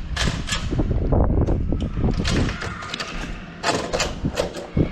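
A door knob lockset being turned by hand: a string of irregular clicks and knocks from the latch mechanism and handling. The latch bolt is not pulling in very far.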